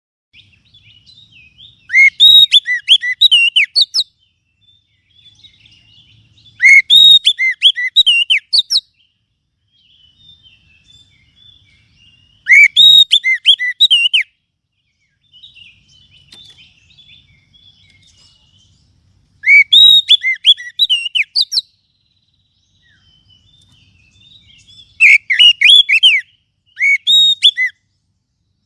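Oriental magpie-robin (kacer) calling: six loud phrases of quick, rising and falling notes, each a second or two long, a few seconds apart, with faint chirps between. It is the kacer call used as a lure to draw in wild magpie-robins.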